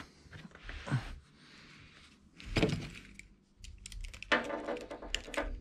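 Boat carpet being cut along a marked line at a folded corner. A soft rustle comes first, then a run of quick small crackling clicks in the second half.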